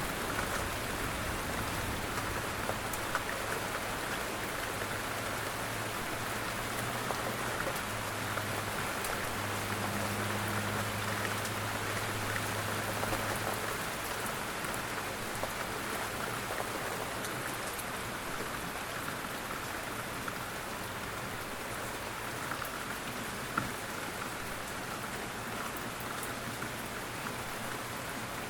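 Steady rain falling on a surface, with scattered ticks of single drops. A low steady hum sits underneath through roughly the first half.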